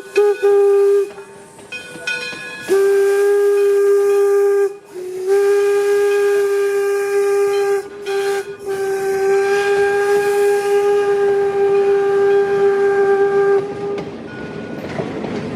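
Steam whistle of Detroit & Lima Northern No. 7, an 1897 Baldwin 4-4-0, sounding a few short toots and then two long blasts, a short one and a final long one: the long-long-short-long grade crossing signal. It cuts off near the end, leaving the rumble of the train running.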